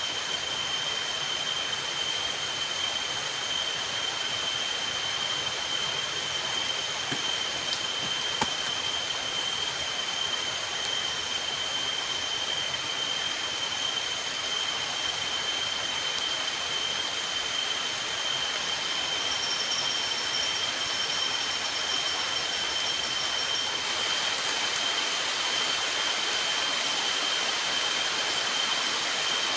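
Steady heavy rain falling in forest, under a constant high-pitched insect drone. Two sharp ticks come about a third of the way in, and the rain grows slightly louder near the end.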